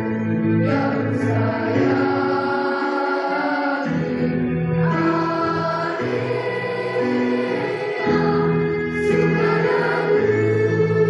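A school choir singing in parts, holding chords that change every second or so.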